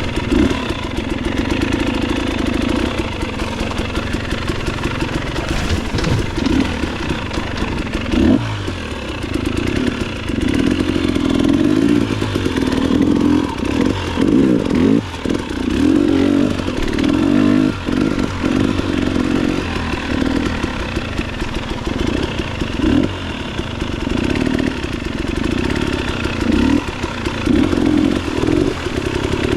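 Motorcycle engine running under way. The throttle opens and closes repeatedly, so the engine note keeps dipping and surging.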